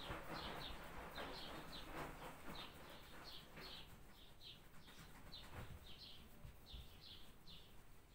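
A small bird chirping faintly and repeatedly, short high chirps at about two a second.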